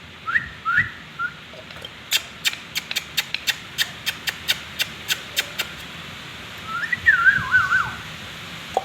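Pet parrot whistling: two short rising whistles, then a longer warbling whistle near the end. A run of sharp clicks, about four a second, comes in between.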